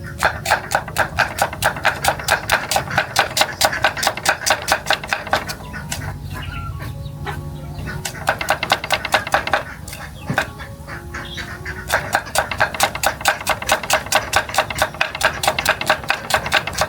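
Rapid, even knocking, about six knocks a second, in three runs with short pauses between them.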